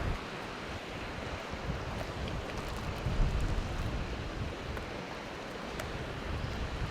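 Steady rain falling, a rushing hiss with faint scattered drop ticks, and gusts of wind buffeting the microphone.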